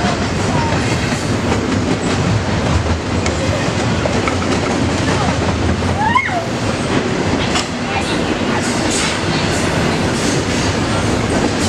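Double-stack container freight train passing close by at speed: a steady, loud noise of the cars and their wheels running over the rails, with a brief faint squeak about halfway through.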